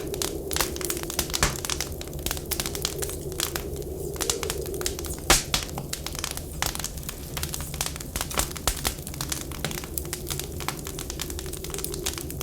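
Wood fire crackling, with irregular sharp pops and snaps, the loudest about five seconds in. Under it runs a steady low wind whistle.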